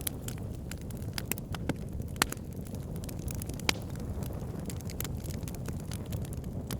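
Fire crackling in a fireplace: scattered sharp pops and snaps over a steady low rumble of the flames. The two loudest pops come a little past two seconds in and about halfway through.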